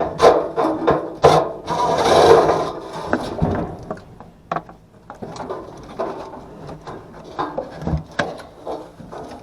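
Hand work with tools and parts: irregular knocks, clicks and scraping, with a longer, louder scrape about two seconds in.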